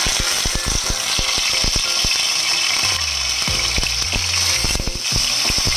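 Salmon steaks sizzling as they go into very hot olive oil in a nonstick frying pan: a steady loud hiss with many crackling pops of spattering oil.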